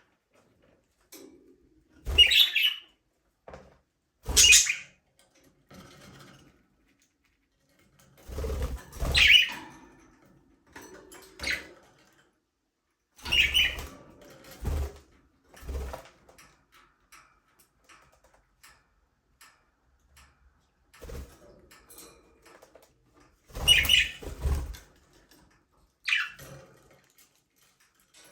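Budgerigars chirping in short, scattered bursts, some with wing flutters and light thumps as the birds move about the aviary.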